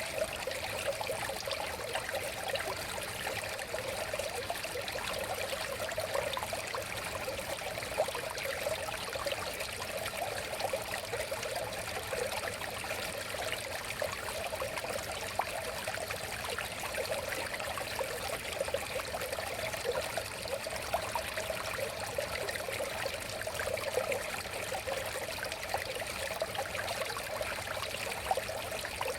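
A river or stream flowing steadily, with continuous babbling and trickling water.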